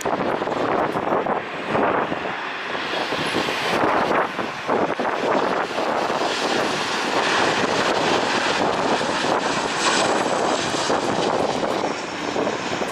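Jet airliner's engines as it comes in to land: a continuous broad rushing noise that wavers in strength and grows brighter about halfway through.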